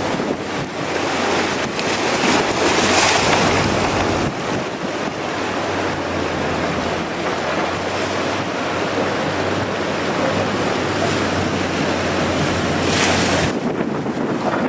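Strong wind rushing and buffeting over the microphone, with gusts rising about three seconds in and again near the end.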